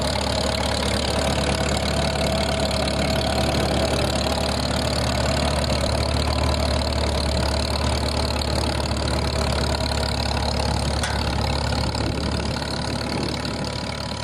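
Tractor engine running steadily under load while pulling an S-tine and rolling basket cultivator, easing slightly near the end.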